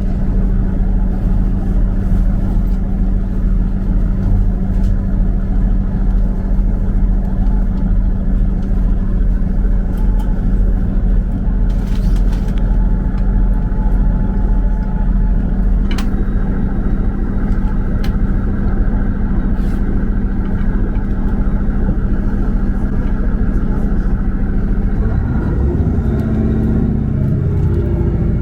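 Passenger train running, heard from inside the carriage: a steady loud rumble with a constant low hum, whose low note shifts and wavers near the end.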